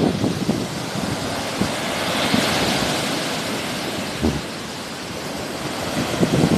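Sea waves washing ashore, with a wave's rush swelling about two seconds in and then ebbing, and wind buffeting the microphone in low rumbles.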